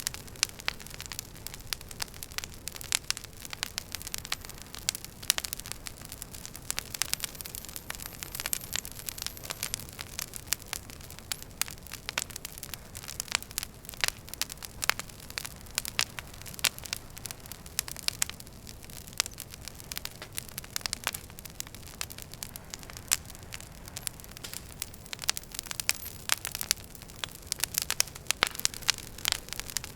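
Wood fire burning in a fireplace: logs crackling with many irregular sharp pops over a low, steady rumble of flame.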